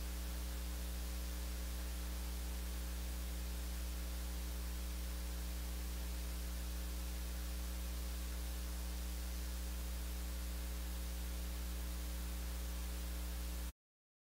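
Steady electrical mains hum with a faint hiss on the audio feed, cutting off abruptly a little before the end into dead silence.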